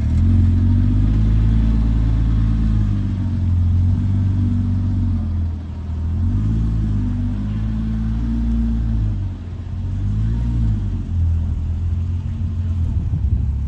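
Car engine running with a deep exhaust rumble, its pitch rising and falling a little as the throttle changes, with two brief dips in level.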